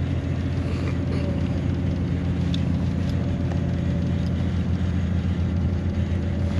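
An engine idling steadily: a low, even hum that holds one pitch.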